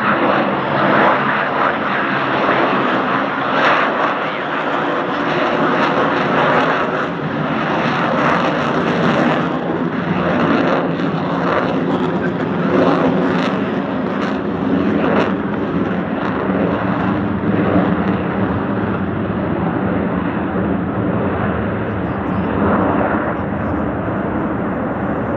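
Fixed-wing aircraft engine running with a steady drone that holds level throughout.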